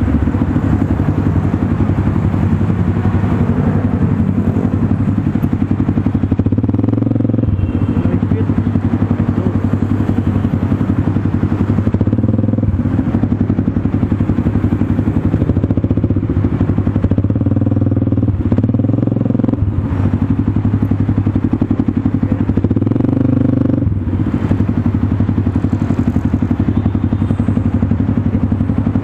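Motorstar Cafe 400's single-cylinder engine running through an SC Project slip-on exhaust on stock headers, loud and steady. The revs rise and drop several times, with brief dips in the note.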